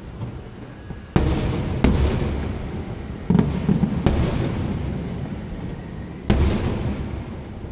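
Fireworks going off: about five sudden loud booms, each dying away over a second or so before the next.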